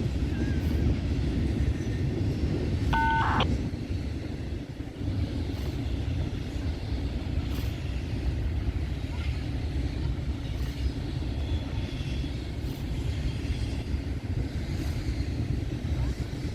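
Double-stack freight train rolling past with a steady low rumble. About three seconds in comes a short beep of two steady tones.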